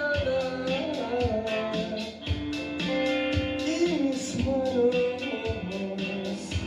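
Indie rock band playing live, recorded as room sound: drums keep a steady beat under guitars and a gliding melody line.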